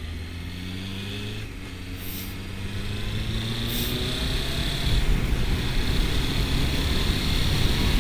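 1997 Honda CBR900RR Fireblade's inline-four engine pulling as the bike accelerates on the road, its note rising over the first few seconds. Wind rush on the microphone grows louder about halfway through.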